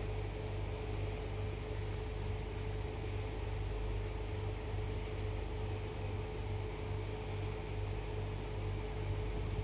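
Steady mechanical hum with a constant mid-pitched tone over a low rumble, unchanging throughout, with faint short high chirps about every two seconds.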